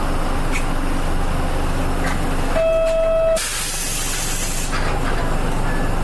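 Nissan Diesel KL-UA452MAN city bus running, heard from inside the cabin. About two and a half seconds in, a single steady electronic beep sounds for under a second, followed at once by a hiss of compressed air lasting about a second.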